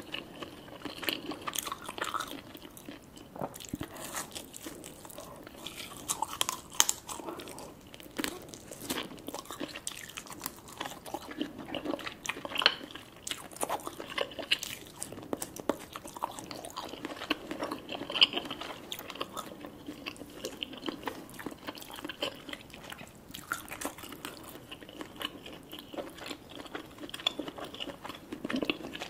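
Close-miked eating sounds: a person biting and chewing lobster claw meat, with many small wet clicks and a few sharper ones.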